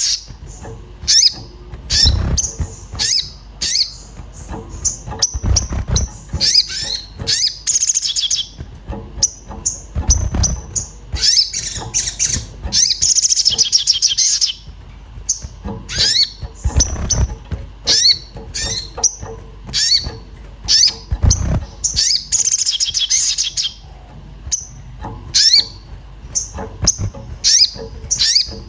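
Sogon songbird chirping in fast, excited 'cuit cuit' runs of short repeated calls, the agitated ('emosi') calling that keepers play to provoke other birds into singing. A few dull low thuds come in under the calls.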